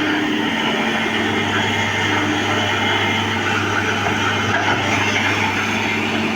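John Deere excavator's diesel engine running steadily, with a constant low hum.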